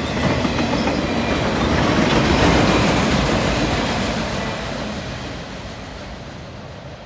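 Freight train cars rolling past, wheels clattering over the rail joints, growing louder to a peak a couple of seconds in and then fading as the end of the train moves away.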